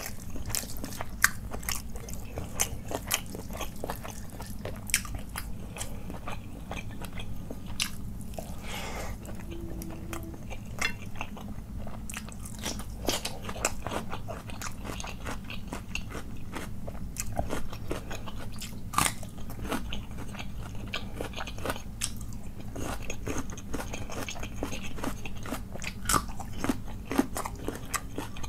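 Close-miked eating: a person chewing and crunching mouthfuls of rice and chicken curry eaten by hand, with many sharp, wet mouth clicks coming irregularly throughout.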